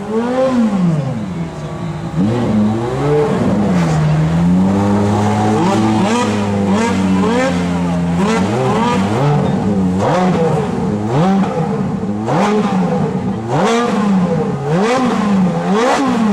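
Ferrari 599 GTO V12 and 430 Scuderia V8 engines revved while stationary, in repeated quick blips that rise and fall, with more than one engine sounding at once. Revs are held steady for a few seconds in the middle. From about ten seconds in the blips come roughly once a second, several ending in sharp exhaust cracks.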